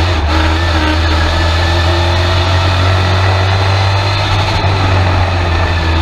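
Race truck's engine running steadily at low revs, heard from inside the cab as a deep, even drone.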